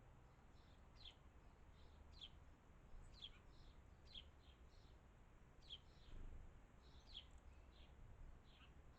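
A small garden bird calling faintly, a short high note sliding downward repeated about once a second, each followed by a couple of softer notes, over a low background rumble.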